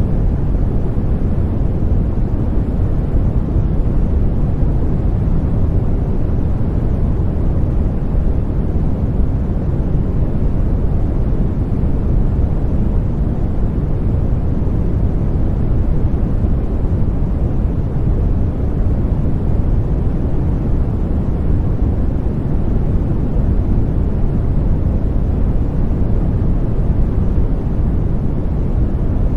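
Continuous white noise for baby sleep: a deep, even rushing sound, heavy in the low range with little hiss, unchanging throughout.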